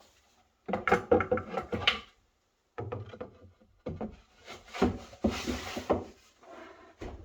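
Camper fittings being handled: a quick run of knocks and clatters, a short pause, then more scattered knocks with a scraping rub partway through.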